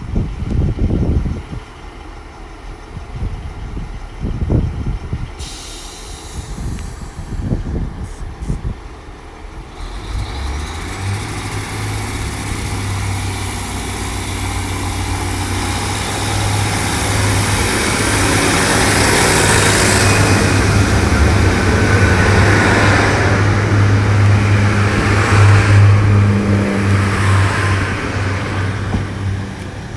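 Diesel multiple unit of a Class 150 Sprinter coupled to a Class 143 Pacer: a steady low engine drone with wheel and rail noise sets in about a third of the way through, grows louder and is loudest about three quarters through, then eases. Gusts of wind thump on the microphone early on.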